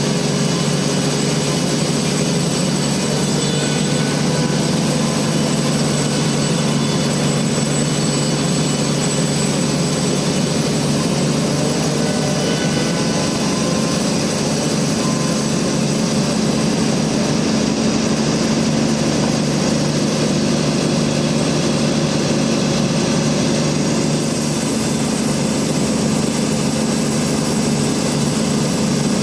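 Large band sawmill running with a steady, loud machine drone that holds even throughout.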